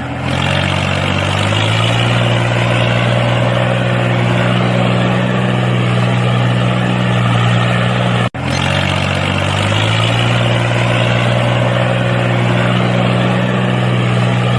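Small electric motor of a DIY model tractor spinning up with a rising hum, then running steadily with a high whirring hiss. It cuts off suddenly about eight seconds in, then starts and spins up again.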